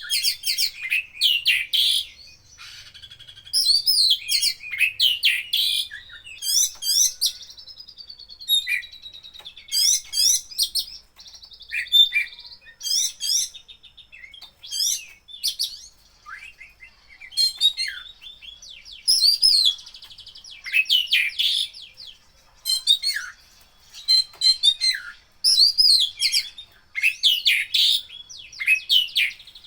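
Oriental magpie-robin (kacer) singing a loud, varied song of short whistled, sweeping and chattering phrases, broken by brief pauses. The song is packed with mimicked calls of other birds.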